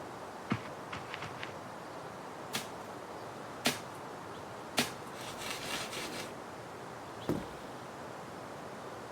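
Scattered sharp clicks, about six spread over several seconds with a short crackly cluster near the middle, the last one heavier with a low thud, over a steady hiss.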